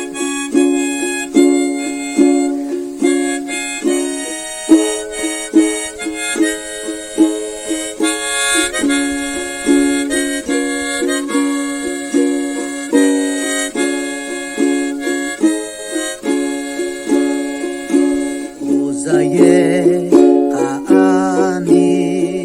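Ukulele strummed in a steady rhythm, chords struck about twice a second. A wavering tone joins near the end.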